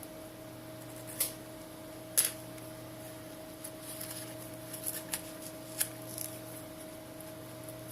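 Small clicks and light crackling as the glass back cover of a Samsung Galaxy S7 is pried and peeled away, its adhesive softened with alcohol. Three sharper clicks stand out, the loudest about two seconds in, with a run of faint crackles through the middle.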